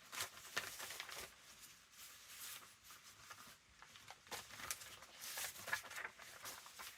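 Paper rustling and light taps as small pieces of paper are handled and pressed down on a work surface, in short irregular bursts.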